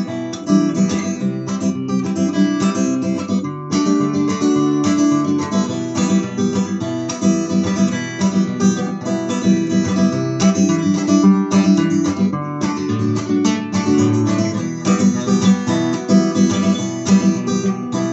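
Acoustic guitar strummed and picked through an instrumental break of a song, with no voice.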